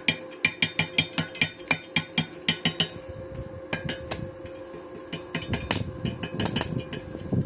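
Hammer striking metal: quick, regular ringing blows, about four a second, for the first three seconds, then irregular knocks.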